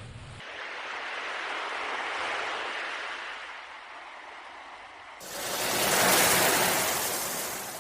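Sea waves washing ashore in two swells, the second louder one starting abruptly about five seconds in and fading away.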